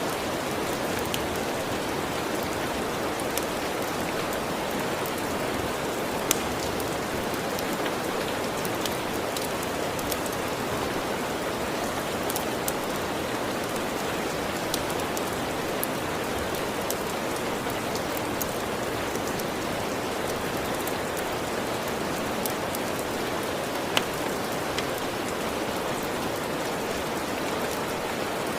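Steady, even rain with scattered sharp clicks and pops; the two loudest come about six seconds and about twenty-four seconds in.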